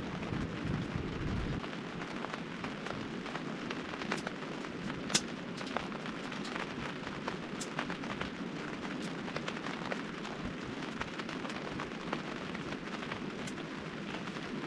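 Steady rain falling on the hot tent's fabric, with scattered sharp pops and ticks, one louder about five seconds in. A low rumble underneath stops about a second and a half in.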